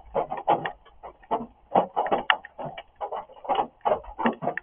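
Rain drumming: drops striking a hard surface close to the microphone in quick, irregular taps, several a second.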